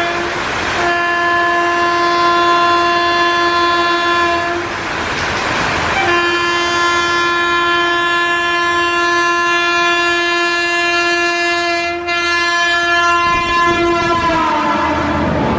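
Indian Railways locomotive horn sounding two long blasts, the second held for about eight seconds and dropping in pitch near the end as the train passes, over steady rain and train noise.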